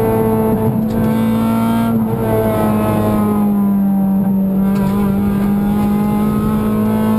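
Honda Civic VTi rally car's four-cylinder VTEC engine running hard at high revs under full throttle, heard inside the stripped, roll-caged cabin. The note holds steady, with short breaks about one and two seconds in, then dips slightly and climbs back.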